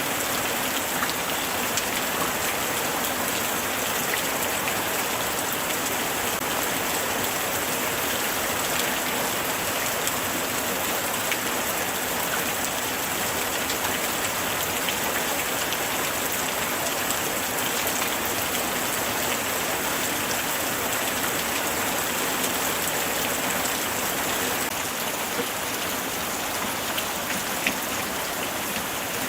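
Steady light rain falling, with the scattered patter of individual drops striking a surface.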